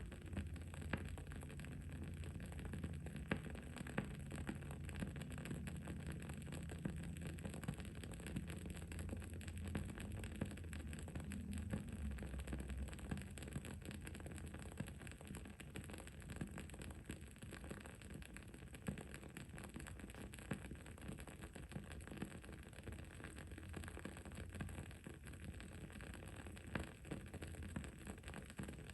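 Wood-wick candle burning with small, irregular crackles and pops over a steady low background hum.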